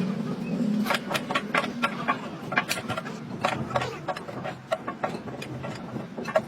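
Irregular sharp knocks and clinks, a few a second, over a steady low hum.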